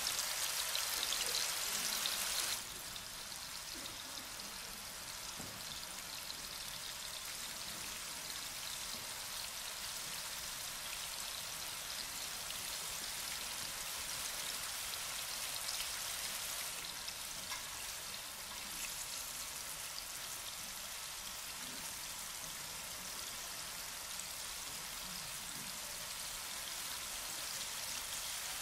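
Steady, dense patter of rain, a fine hiss of many small drops, dropping in level a little over two seconds in and then holding even.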